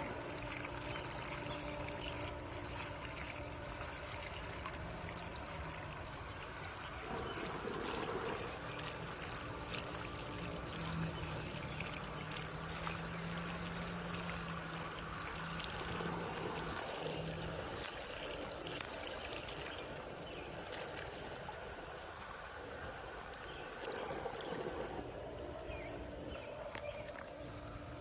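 Pool water running and trickling steadily, with a low mechanical hum underneath that grows stronger for several seconds in the middle.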